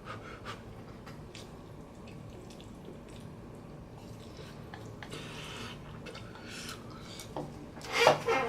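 Mouth sounds of eating spicy noodles: faint wet clicks and smacks of chewing, a soft breath about five seconds in, and a loud sharp gasping breath near the end, the hard breathing of a mouth burning from chilli heat.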